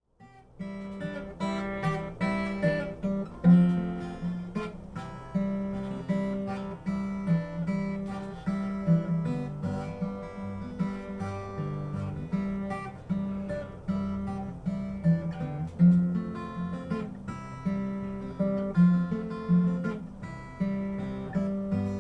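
Acoustic guitar playing an instrumental intro, strummed and picked chords in a steady rhythm.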